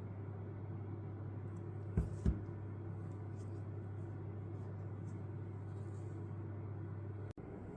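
A steady low hum, with two quick knocks about two seconds in; the hum breaks off abruptly near the end.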